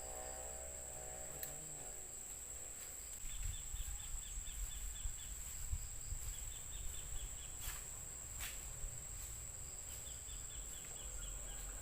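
Insects in a rice paddy keep up a continuous high-pitched trill, with three runs of rapid chirps a little lower in pitch. From about three seconds in, an uneven low rumble with small knocks rises underneath.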